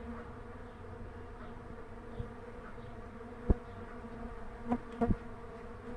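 Many Melipona quadrifasciata (mandaçaia) stingless bees buzzing in flight around their hive box, a steady hum with a low droning tone; the dense buzz is the sign of a strong colony. A sharp tap about three and a half seconds in and a couple of light knocks a little later.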